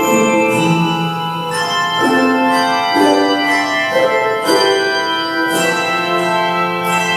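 Instrumental music played on an organ, with sustained chords that change every second or so.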